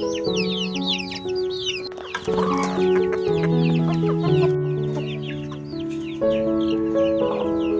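A crowd of chickens peeping, many short falling chirps overlapping, over background music of slow held notes.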